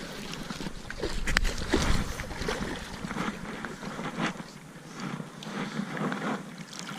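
Wind buffeting the microphone, with rustling handling noise and a sharp click about a second and a half in.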